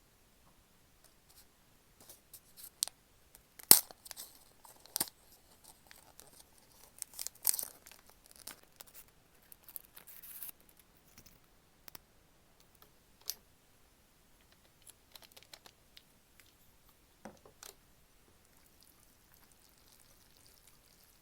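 Scattered crinkling and sharp clicks from objects being handled, busiest in the first half, with the loudest click about four seconds in.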